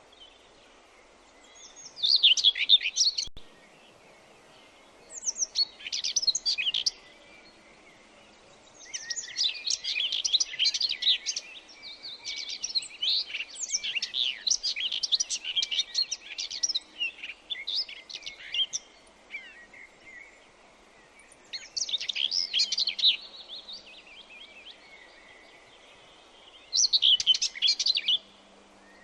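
Songbird chirping in quick bursts of high, rapid notes: short phrases of a second or two with pauses between, and one longer run of song in the middle, over a faint steady background hiss.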